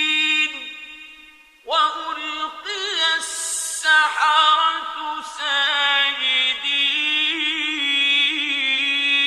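A male reciter chanting the Quran in melodic tajweed style, with long, ornamented held notes. The repeated verse 'wa-ulqiya as-saharatu sajidin' ('and the magicians fell down in prostration') is heard: a phrase fades out, a new one begins about two seconds in, and a long held note runs through the second half.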